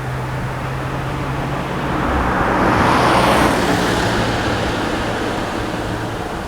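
A vehicle passing by: its noise swells to a peak about three seconds in and fades away, over a steady low hum.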